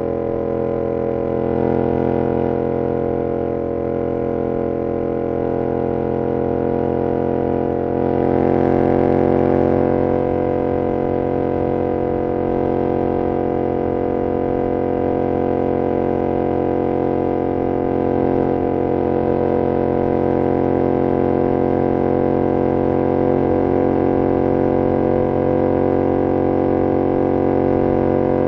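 2022 Yamaha R7's 689 cc parallel-twin engine through an SC-Project CR-T exhaust, running at steady revs with a constant drone. It gets a little louder about eight seconds in, then holds steady again.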